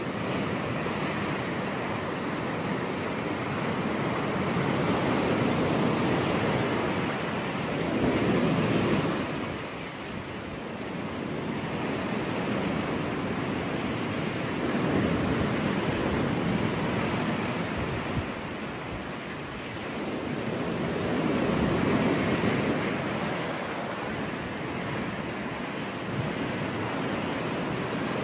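Ocean surf breaking on a beach: a steady wash of water noise that swells and ebbs every several seconds as waves come in.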